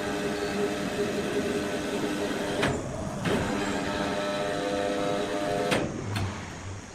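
Sawmill machinery running with a steady, many-toned mechanical hum, broken by a few sharp knocks about three and six seconds in; the sound dies away near the end.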